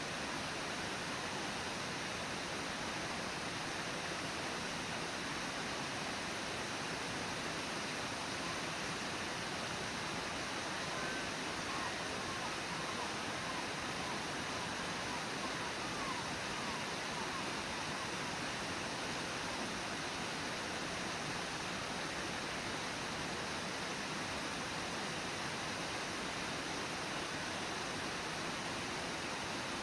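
Brooks Falls waterfall and the Brooks River rushing in a steady, unchanging roar. A few faint short chirps sound about midway.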